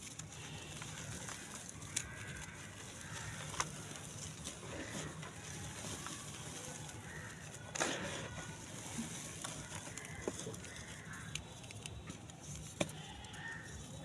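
Grainy dry clay crumbling and crunching, with a few sharp cracks scattered through, the loudest about eight seconds in.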